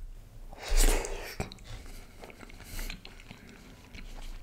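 Eating sounds of a man biting into a piece of sauce-covered butter chicken and chewing, with the loudest, a short noisy burst, about a second in and soft thumps of handling through it.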